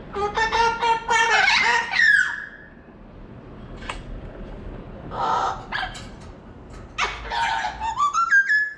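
Parrot giving harsh, bark-like calls in bursts: a run of calls in the first two seconds that ends in a falling whistle, a couple of short calls about five seconds in, and another run near the end that rises into a whistle.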